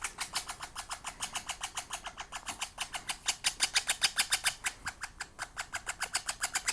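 Princess of Wales parakeet chick calling in a rapid, raspy, even series of about seven calls a second, with no pauses.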